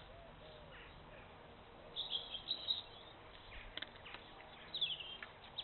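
Garden birds chirping: two short clusters of high, quick twittering notes, about two seconds in and again near the end, over faint outdoor background noise.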